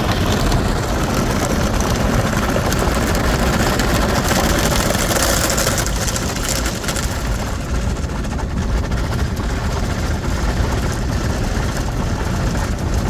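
Ryko SoftGloss Maxx 5 in-bay automatic car wash running: water spray hissing over a steady low rumble, the spray loudest for a couple of seconds about four seconds in.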